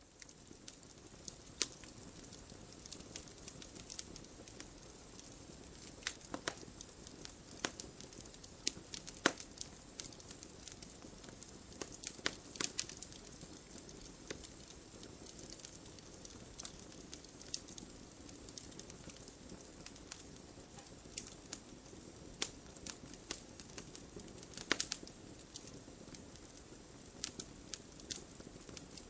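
Wood fire crackling: irregular sharp pops and snaps over a soft steady hiss of burning, with a few louder snaps scattered through.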